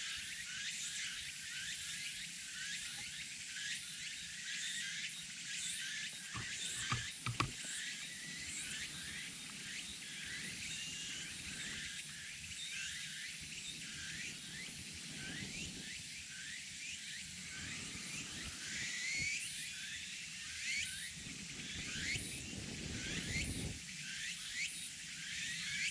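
Wild birds chirping and calling continuously in woodland, many short rising and falling notes overlapping, with a few sharp knocks about seven seconds in.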